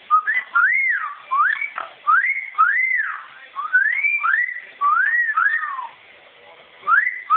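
Amazon parrot whistling a series of arched notes, each sliding up and back down, many in quick pairs, with a short pause near the end.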